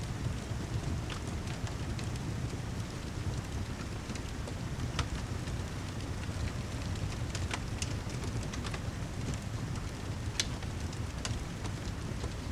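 Steady rain ambience with a low rumble, mixed with a wood fire crackling: scattered sharp pops come every second or so.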